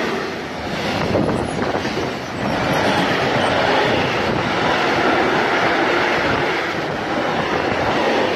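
Freight train's goods wagons rolling past: a steady noise of steel wheels on rail with clacking as the wheelsets pass, dipping briefly twice in the first few seconds.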